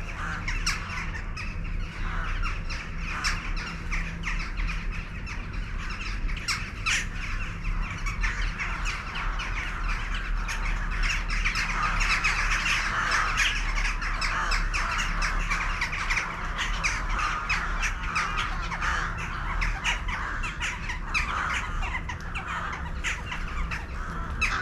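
A large flock of birds calling all at once: a dense, continuous chatter of many short, overlapping calls with no pause.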